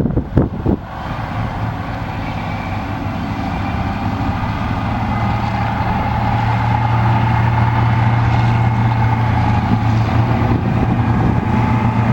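Lockheed P-38 Lightning's twin Allison V-12 engines droning in flight, growing louder over the first several seconds and then holding steady. Wind buffets the microphone at the start.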